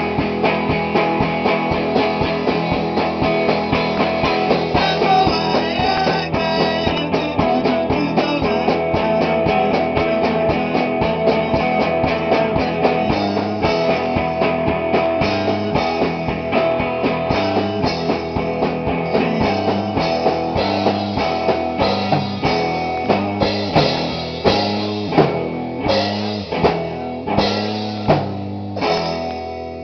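Rock band rehearsing live, with guitars and a drum kit playing a full-band song. Near the end the band breaks into a run of separate accented hits, about one a second, and the sound starts to ring out.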